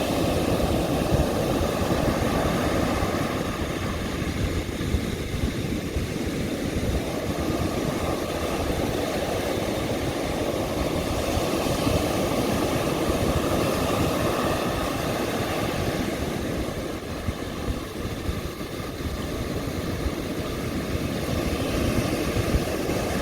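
Ocean surf washing onto a beach: a continuous, deep rushing of waves that swells and eases, falling back a little about five seconds in and again a few seconds before the end.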